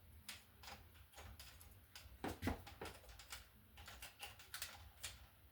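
Irregular light clicks and taps of hand tools and wires being handled at a wall outlet box.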